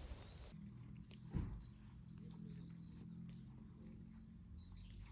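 A horse moving about at low level, with one sharp hoof knock about a second and a half in, over a faint low steady hum.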